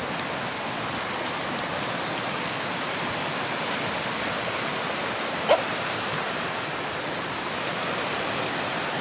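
Rushing river water, a steady hiss. One short animal call cuts through about five and a half seconds in.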